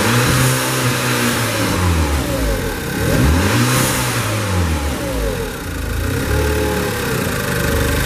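Volkswagen Passat B6's 1.8-litre BZB turbocharged four-cylinder petrol engine being revved hard, its pitch climbing and falling back about three times. It runs stably through the revs.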